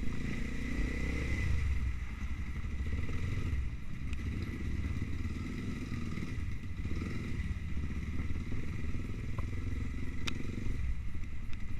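Trail motorcycle engine running steadily at low revs, with a few sharp clicks and some clatter.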